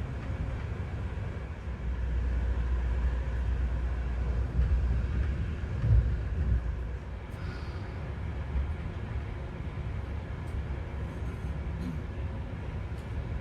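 Regional train running, heard from aboard: a steady low rumble that grows louder a couple of seconds in, with a short louder thump about six seconds in, then settles back.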